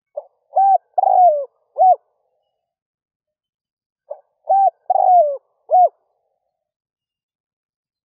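A spotted dove cooing its song twice: each phrase is a short lead note followed by three coos, the third one longer and falling in pitch.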